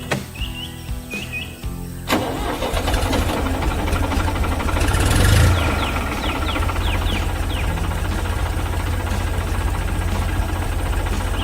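A vehicle engine starts about two seconds in, swells to a peak a few seconds later and then runs steadily, with short bird chirps over it.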